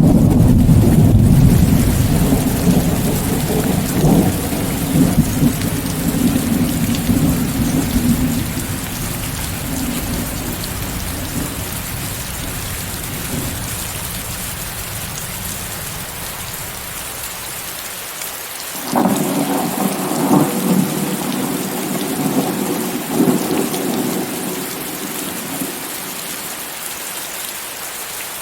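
Steady heavy rain with thunder, mixed with a layer of white noise. A long rolling rumble fades away over the first half, then a new peal of thunder breaks in suddenly about two-thirds through, rumbles on in uneven surges and dies away.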